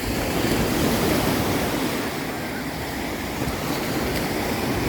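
Ocean surf washing steadily onto the shore.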